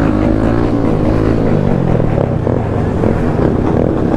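Motorcycle engine being revved loudly, its pitch sweeping down over the first two seconds and then rising and falling unevenly.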